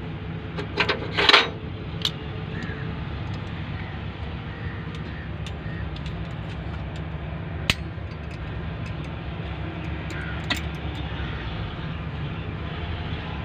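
A steady low mechanical rumble with a few sharp knocks and clicks. The loudest is a cluster of knocks about a second in.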